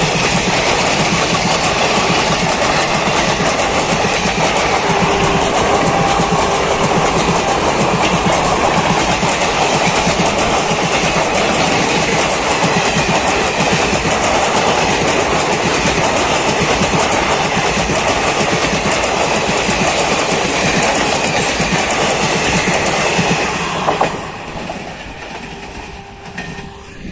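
Passenger train coaches passing close by, the wheels running on the rails in a loud, steady rush. About three-quarters of the way through, the last coach goes by and the noise drops away quickly to a fading rumble as the train moves off.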